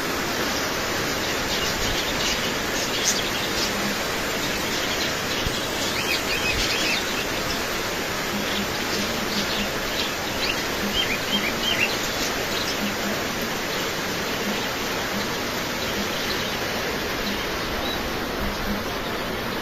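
Small birds chirping in short, high calls over the steady hiss of rain, the chirps clustered in the first half and fading out after that.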